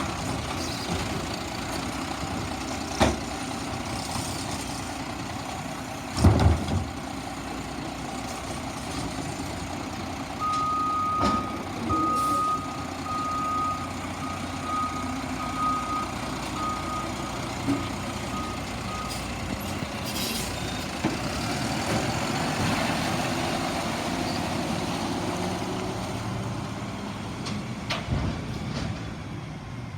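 Garbage truck engine running steadily, with two loud bangs near the start. Its backup alarm beeps about once a second for several seconds, growing fainter, followed by a short hiss.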